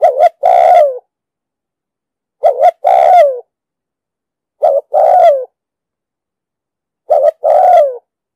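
Spotted dove cooing: four phrases about two and a half seconds apart, each a quick short coo followed by a longer coo that drops in pitch at the end.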